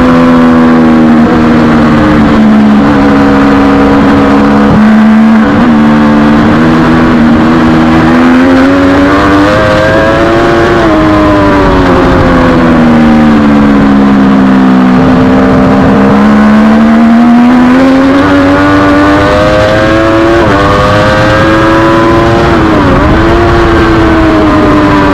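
Triumph Daytona 675R's inline-three engine heard onboard at race speed, its revs rising and falling in long smooth sweeps, with a brief sharp dip in pitch near the end.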